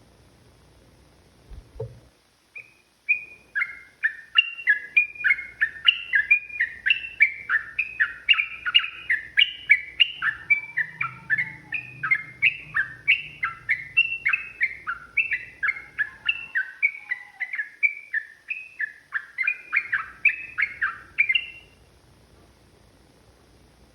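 Yellow-vented bulbul (trucukan) singing a long, rapid run of whistled notes, each note sliding downward, about two to three notes a second. It starts about three seconds in and stops a couple of seconds before the end.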